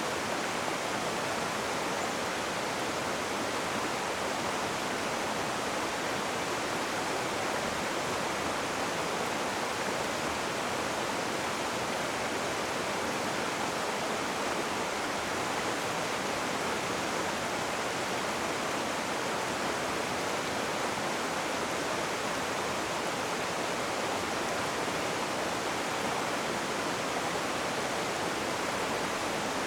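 Rushing river water, a steady unbroken rush with no change in level.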